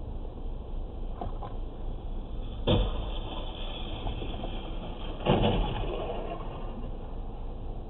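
Steady rumble of a car on the road, broken by a sudden loud impact about a third of the way in and a second, louder crash about two-thirds in.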